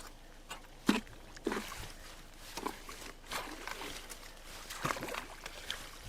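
Irregular sloshes and splashes of water, with short knocks, as debris is pulled out of a blocked culvert.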